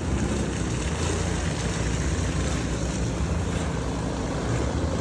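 Steady low rumble of a vehicle on the move, with an even hiss over it.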